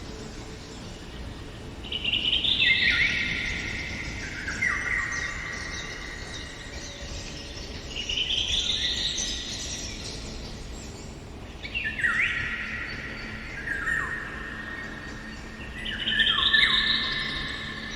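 Songbirds singing: a song phrase of quick notes cascading down in pitch, repeated about every four seconds, over a quiet woodland background.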